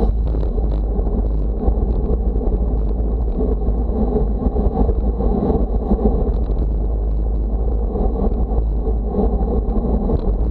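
Steady wind buffeting the microphone: a loud, constant low rumble.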